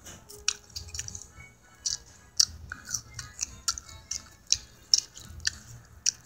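Close-up eating noises: a person chewing with wet lip smacks and mouth clicks, about two a second, irregular.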